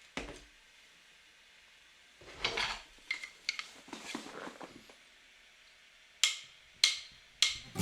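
A scattered series of short, sharp clicks and knocks, like small hard objects being handled, with a brief rustling burst about two and a half seconds in and three crisp clicks spaced about half a second apart near the end.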